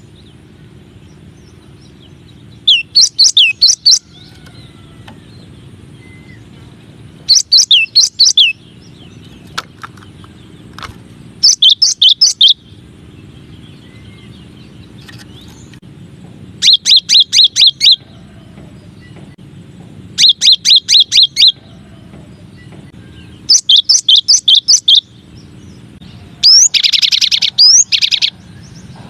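Cinereous tit (gelatik batu) song: seven phrases of five or six quick, high, downward-sweeping notes, repeated about every four seconds over a steady low hum. The last phrase, near the end, is denser and longer.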